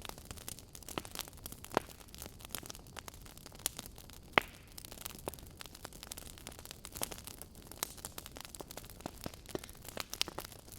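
Wood fire crackling: a steady low hiss with irregular snaps and pops throughout, the sharpest a loud pop about four and a half seconds in.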